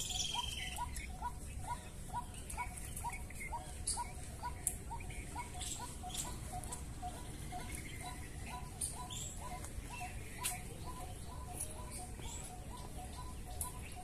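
Birds calling: a short, low note repeated evenly about two to three times a second, over scattered brief high chirps and a low outdoor hum.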